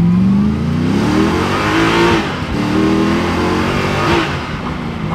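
Car engine accelerating, its pitch climbing and then dropping at a gear change about two seconds in and again about four seconds in.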